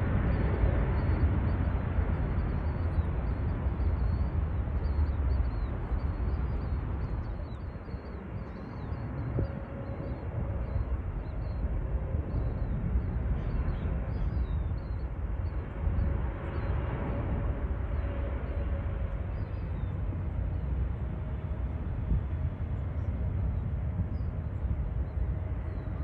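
Jet airliner engines rumbling at a distance, with a faint steady whine coming in about nine seconds in.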